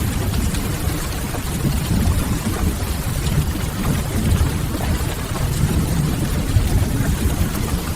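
Steady rain with a deep low rumble underneath, mixed with the faint crackle of a wood fire.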